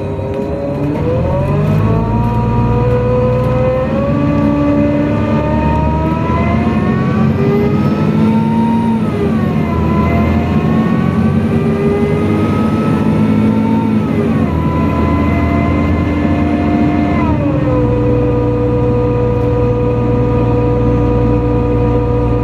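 NefAZ-5299-30-51 city bus engine and drivetrain heard from inside the cabin. The whine rises in pitch as the bus pulls away, dips briefly about nine seconds in as it shifts gear, then climbs again. It falls off around fourteen seconds, drops again about seventeen seconds in, and runs at a steady pitch near the end.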